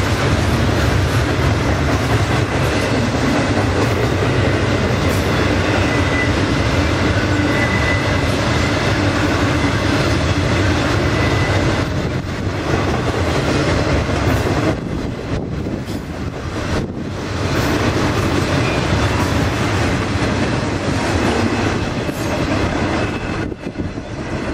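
Freight cars of a garbage train rolling past, with a steady rumble and wheels clacking over the rail joints. A faint wheel squeal comes in the first half, and the rumble eases somewhat in the second half.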